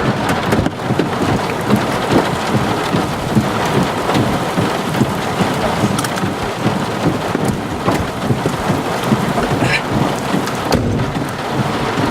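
Thunderstorm rain and wind outdoors, a loud, steady rushing noise with no let-up.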